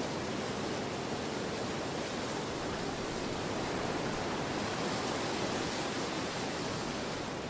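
Storm wind blowing hard, a steady rushing noise that swells a little midway.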